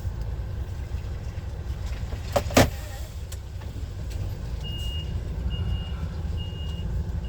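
Heavy lorry's diesel engine running low and steady, heard from the cab, with a brief loud clatter about two and a half seconds in. From about halfway a reversing alarm starts beeping, a short high beep a little under once a second, as the lorry backs into a parking space.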